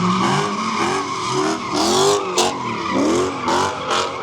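A car drifting on the track: the tyres squeal while the engine revs up and down over and over.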